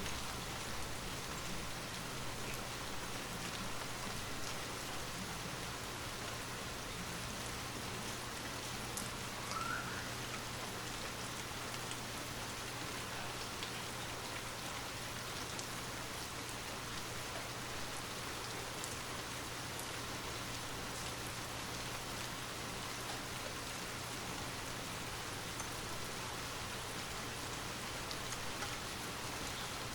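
Steady rainfall from a rain-sound ambience track, with a few single drops standing out now and then.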